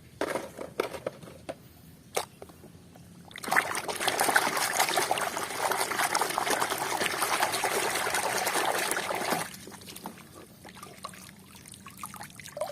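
Water pouring and trickling over a muddy toy as it is rinsed, starting about three seconds in and stopping about six seconds later, with a few light clicks before and after.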